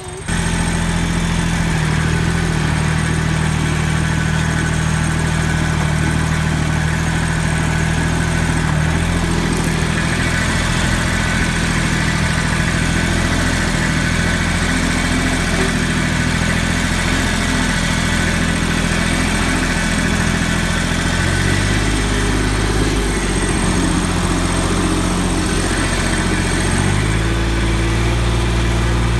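Yanmar 169D compact tractor's diesel engine running steadily and loudly while plowing, its pitch shifting twice in the last third as the engine speed changes.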